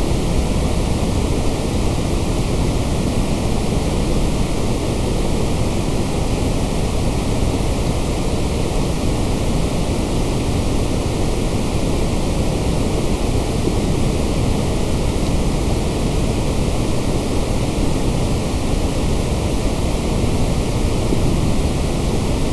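Steady electronically generated white noise: a constant, even hiss that never changes in level or character.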